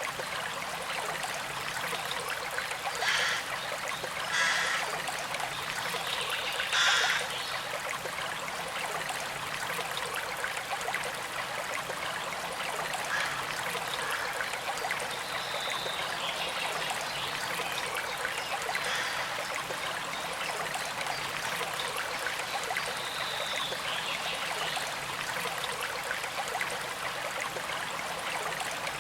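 Small creek flowing and trickling steadily, with a few brief louder splashes in the first seven seconds.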